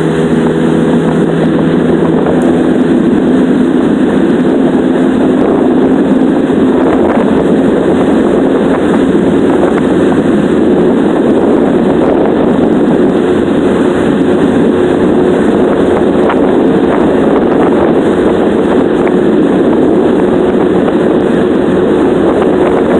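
20-horsepower Yamaha outboard motor running steadily, pushing a small boat along, over a loud steady rushing noise.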